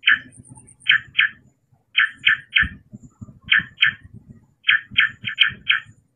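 Short, sharp animal chirps repeated in quick groups of two to four, about fifteen in all, over a low, uneven rumble.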